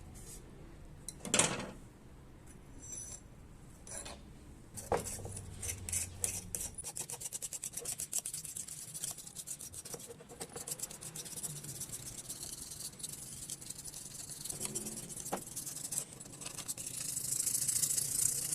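Fast back-and-forth scraping, like a bicycle part being scrubbed, sanded or wire-brushed by hand, with a couple of sharp knocks before it starts and a brighter hiss near the end.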